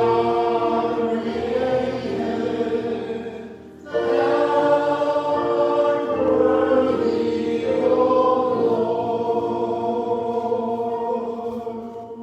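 Choir singing a slow hymn in sustained, held chords, with a short break about four seconds in; the last chord fades out near the end.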